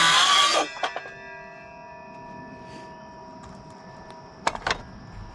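A saw cutting through a wooden rafter end stops about half a second in. A steady metallic ringing of several tones follows, fading slowly. A few sharp knocks come near the end.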